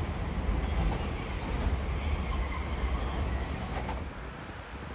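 Sydney Trains double-deck electric train running away along the tracks, a low rail rumble that slowly fades and drops away about four seconds in.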